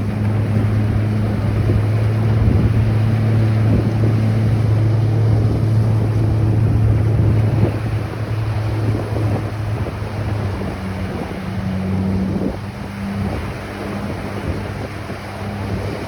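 Waves washing on a beach with wind on the microphone, under a low steady engine drone that is loudest in the first half and weakens after about eight seconds.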